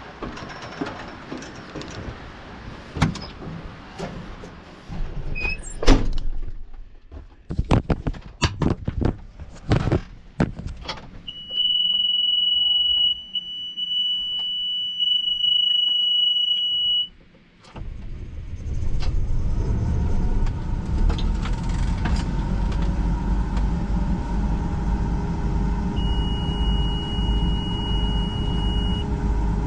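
Scattered clicks and knocks, then a steady high warning tone for about six seconds. After a brief lull, a combine's engine starts and runs steadily, with another steady tone sounding for a few seconds near the end.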